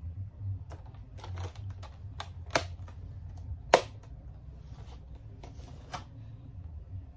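Close-up eating sounds: a person licking food off his fingers and chewing, with wet lip smacks and clicks, two of them sharp and loud a little past the middle, over a low steady hum.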